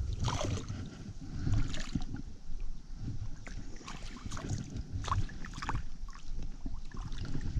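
Stream water splashing and sloshing as a hooked smallmouth bass is played and landed, with scattered sharp splashes over a low rumble.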